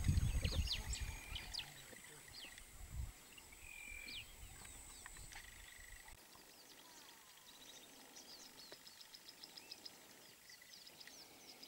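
Wild birds chirping and calling: scattered short high chirps and whistled notes, with a fast run of evenly repeated high notes in the second half. A low rumble, like wind or handling on the microphone, lies under the first couple of seconds.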